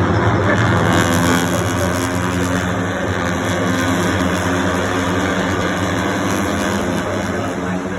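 Racing motorcycle engines running at high revs on the circuit: a steady, loud engine drone, swelling about a second in as bikes pass close.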